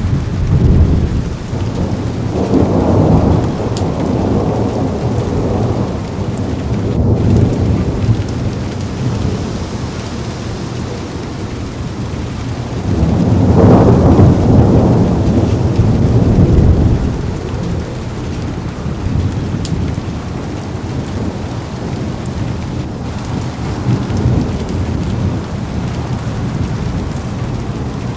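Heavy rain pouring steadily on a car window, with rolling thunder: a long low rumble a few seconds in and a louder, longer one around the middle.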